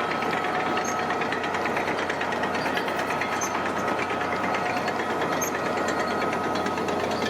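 Diesel engine of heavy construction machinery running steadily, with a fast, even clatter and a thin steady tone over it.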